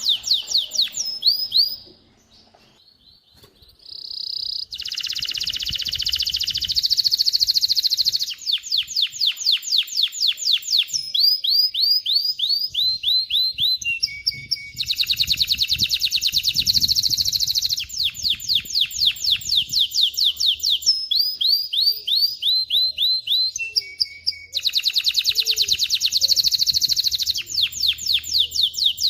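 Male domestic canary singing: long rolling trills of fast, evenly repeated notes, the phrases changing in speed and pitch one after another, with a brief pause about two seconds in.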